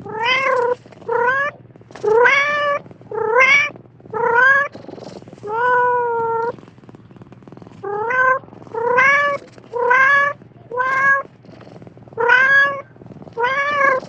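A cat meowing over and over: about a dozen short meows, each rising in pitch, with brief pauses between them.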